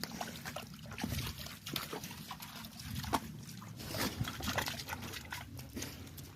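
A dog moving about near trickling water, with many small clicks and rustles.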